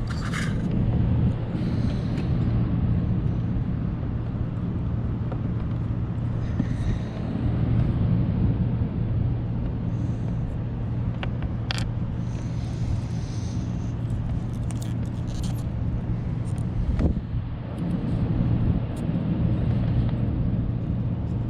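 A steady low rumble, like a motor running, throughout, with scattered clicks and rattles of parts being handled and fitted.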